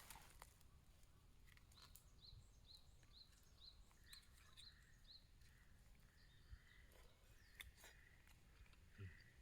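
Faint bird calls over near-silent outdoor quiet: a run of about eight short, high notes, a little over two a second, between about two and five seconds in, with a few faint clicks.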